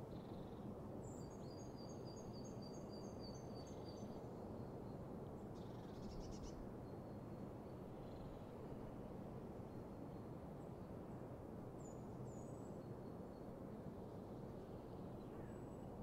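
Faint songbirds calling over a steady low background hiss. A quick run of high repeated notes sounds from about one to four seconds in, and short scattered calls follow.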